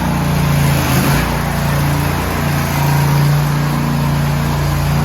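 Small engine of a riding lawn tractor running steadily close by, with a low, even hum.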